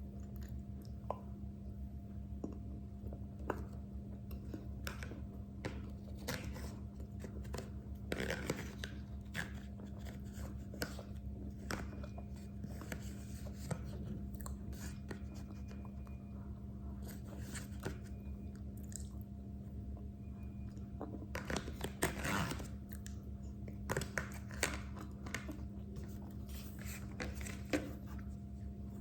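A person chewing food close to the microphone, with irregular crunches and mouth clicks. A steady hum runs underneath.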